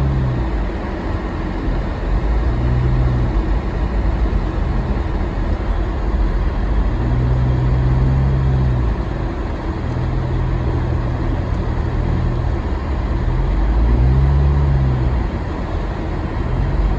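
Car engine and tyre noise heard inside the cabin while driving slowly on a snow-covered road: a steady low rumble, with the engine's hum rising and falling in pitch several times as the car speeds up and slows.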